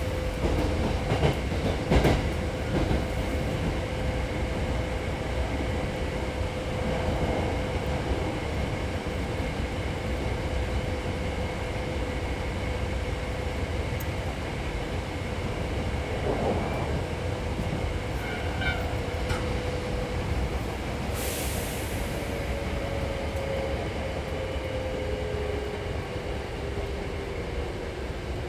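Hankyu 6300 series electric train running on the Arashiyama Line, heard from inside the car: a steady rumble of wheels on rail with a constant hum, a few rail-joint clicks in the first couple of seconds, and a short hiss about 21 seconds in. The hum drops slightly in pitch near the end.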